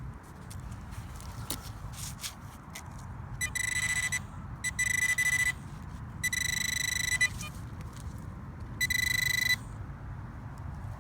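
Metal detector sounding its target tone: four separate steady high-pitched beeps of the same pitch, each under a second, that start and stop sharply, the sign of a strong metal signal under the coil. Wind rumbles on the microphone throughout, with a few light clicks in the first few seconds.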